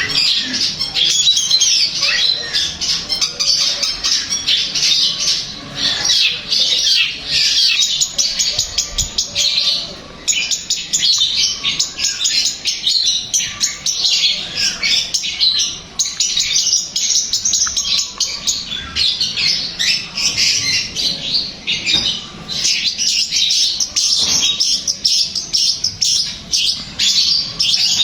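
Long-tailed shrike (cendet) singing a fast, nearly unbroken run of high notes, with short breaks about ten, sixteen and twenty-two seconds in.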